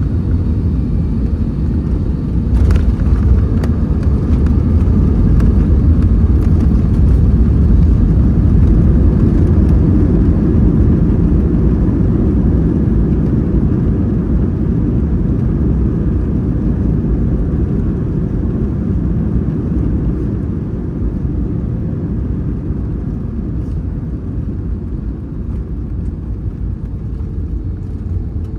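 Cabin noise inside an Airbus A320 airliner: a loud low rumble with a sharp knock about two and a half seconds in. The rumble swells over the next few seconds, then slowly fades.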